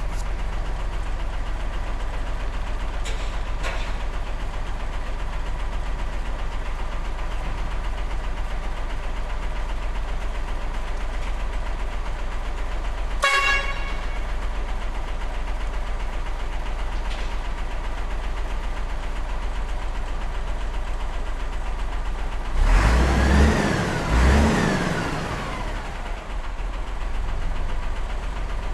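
Model truck's engine running steadily with a low hum. There is a short horn toot about halfway, and near the end a louder stretch of a few seconds whose pitch rises and falls.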